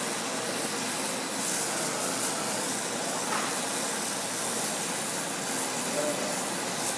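Brazing torch flame hissing steadily while it heats a pipe joint for brazing.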